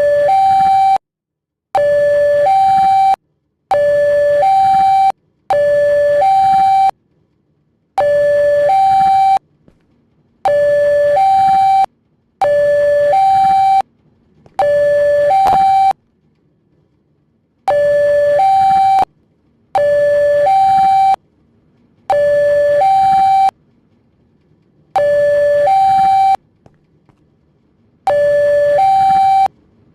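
Indonesian railway level-crossing alarm sounding its two-tone electronic warning over and over: a lower note, then a longer higher note, repeating about every two seconds with brief pauses. It is the signal that a train is approaching the crossing.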